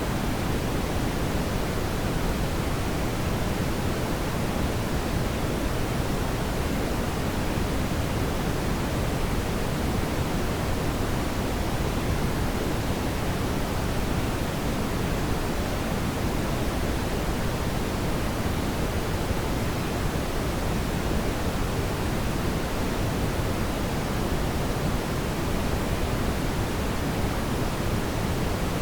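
Steady brown noise: a deep, even, unchanging hiss, strongest in the low end and soft in the highs.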